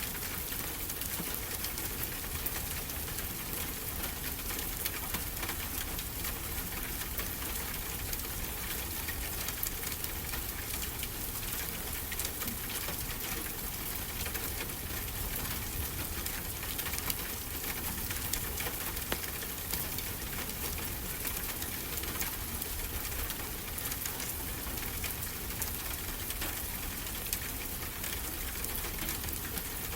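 Fireplace crackling with many small pops, over a steady hiss and low rumble of ocean surf.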